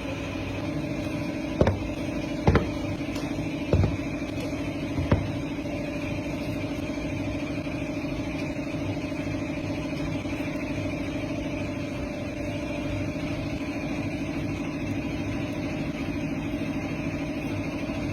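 Factory machinery running with a steady hum, and four sharp knocks or clacks in the first five seconds.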